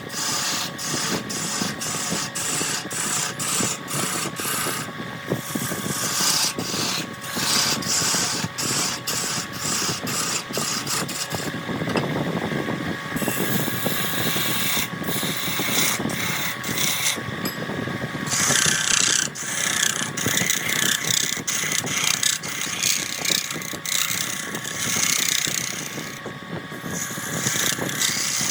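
Wood lathe turning a jackfruit log while a turning tool cuts into it: a rapid run of knocks, about two or three a second, for the first ten seconds or so, then a steadier rough scraping.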